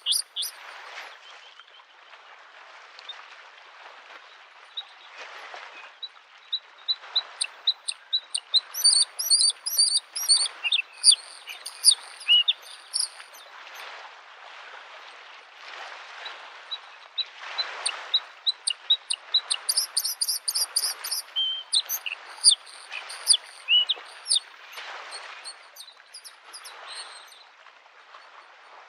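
Bluethroat singing fast, varied phrases of high chirps, clicks and ticking notes, in two long runs separated by sparser calls. Underneath, small lake waves lap the shore in soft swells every second or two.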